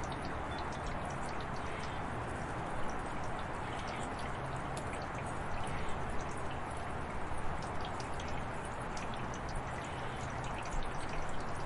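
Steady rain falling, with many separate drops striking and dripping onto a hard surface over the constant hiss.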